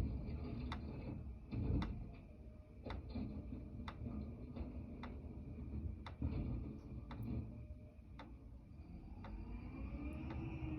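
Garbage truck running with a low steady rumble and a sharp click about once a second. A rising whine comes in near the end.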